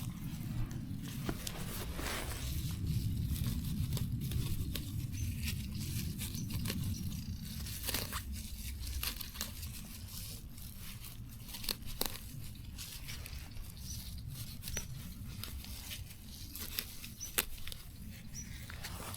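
Scattered small tearing and crackling sounds, plants or grass being pulled and snapped by hand, over a steady low rumble.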